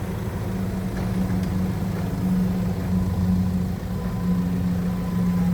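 Forklift engine running steadily at a constant speed, a low, even hum.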